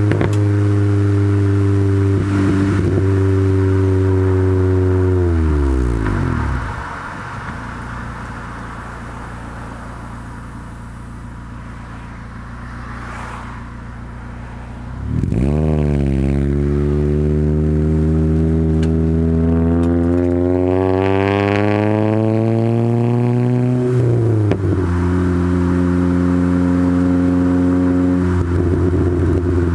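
Honda/Acura Integra GSR's four-cylinder engine with Type R camshafts and an aftermarket exhaust, under way on a drive. Its steady note falls away about five seconds in and stays low and quieter for several seconds. About fifteen seconds in it pulls hard, the pitch rising steadily for about nine seconds, then drops suddenly at a gear change and runs steadily again.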